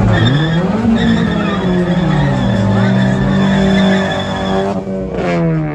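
A car doing a burnout: the engine is revved up and held at high revs while the tyres squeal. Near the end the revs drop and the squeal stops.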